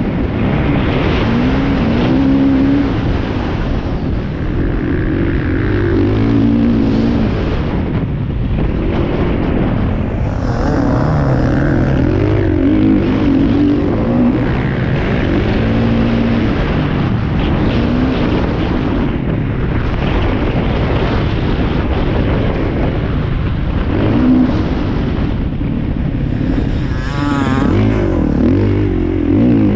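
Motocross dirt bike engines revving hard and backing off over and over, the pitch climbing and dropping every few seconds as the bikes accelerate and shift.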